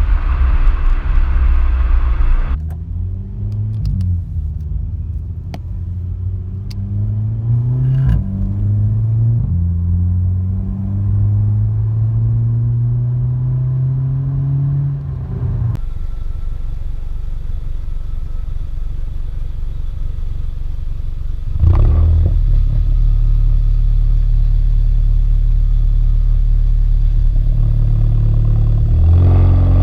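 Volkswagen GTI's turbocharged 1.8 TSI four-cylinder running through an aftermarket custom exhaust under load. The pitch climbs and drops back several times, as it does when a car accelerates through the gears. It then runs steadily, gets suddenly louder about two-thirds of the way through, and climbs again near the end.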